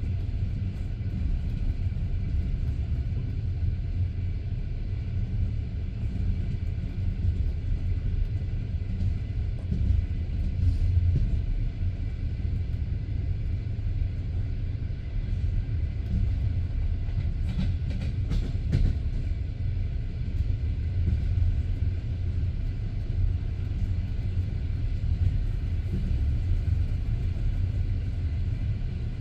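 Passenger train carriage in motion: a steady low rumble of the wheels on the track, with a brief run of sharp clicks about two-thirds of the way through.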